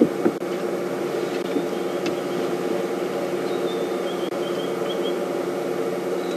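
A vehicle engine idling with a steady hum. Faint high bird chirps come through near the middle.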